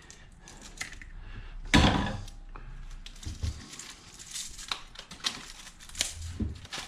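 Clinks, clicks and knocks of metal scrap and hand tools being worked and handled, with one louder clatter about two seconds in.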